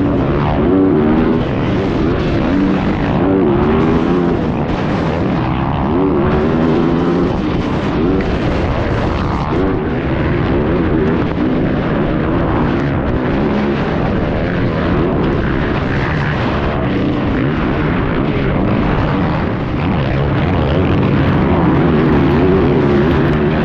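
Motocross dirt bike engines running hard, the pitch climbing and dropping again and again as the throttle is opened and shut.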